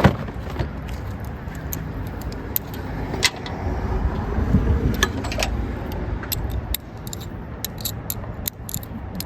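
Scattered light metallic clicks and clinks of hand work under a car's hood, over a low steady rumble. A sharp click comes right at the start.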